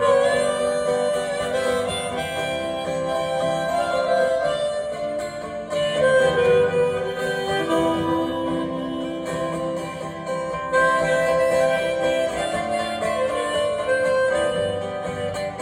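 Harmonica playing an instrumental break of a folk-country song, with held notes over a strummed acoustic guitar.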